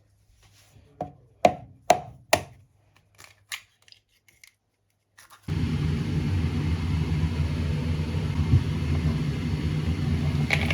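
A knife chopping on a wooden cutting board: about four sharp strokes, then a few lighter taps. About halfway through, a steady loud rushing noise starts suddenly and keeps going.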